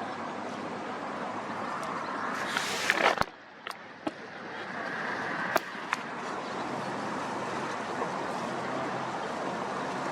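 Strong wind blowing over the microphone as a steady rushing noise, with a louder gust about three seconds in, followed by a few sharp clicks.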